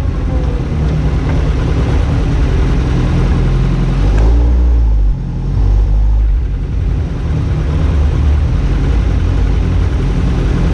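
BAC Mono's four-cylinder engine running at low revs while the car is driven slowly and parked, the revs rising and falling. There is a sudden drop in level about five seconds in.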